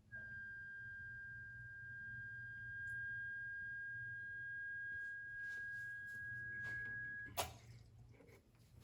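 Rancilio espresso machine giving a steady, high-pitched hum at start-up after sitting idle for hours. The hum cuts off sharply with a click a little over seven seconds in. Support took it for trapped air bubbles trying to escape the machine.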